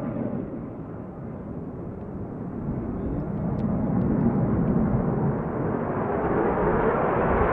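Jet aircraft engine noise, an even rushing sound that swells steadily louder as the jet approaches.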